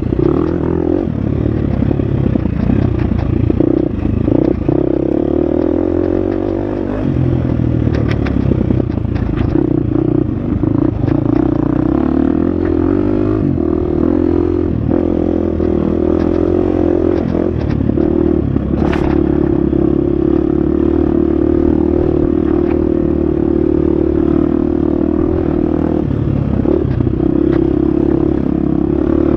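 Husqvarna FX 350 single-cylinder four-stroke dirt bike engine running hard on a trail, the revs holding steady with a few brief dips. Scattered knocks and clicks come through over it.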